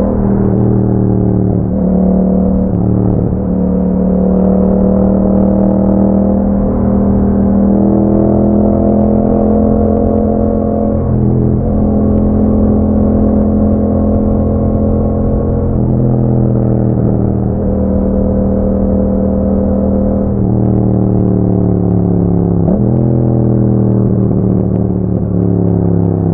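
2021 Yamaha MT-07's 689 cc parallel-twin engine through an Akrapovic exhaust, running under way with a steady note that breaks and shifts pitch every few seconds.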